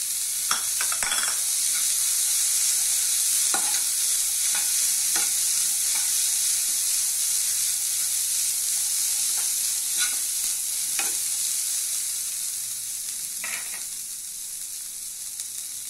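Boiled green gram frying with onions in hot oil in a nonstick pan: a steady sizzle, with a spatula scraping and knocking against the pan every second or so as it is stirred. The sizzle eases a little toward the end.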